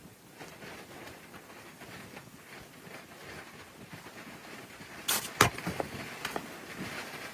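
Faint scattered clicks and rustling, then two sharp knocks in quick succession a little after five seconds in, followed by a few lighter taps.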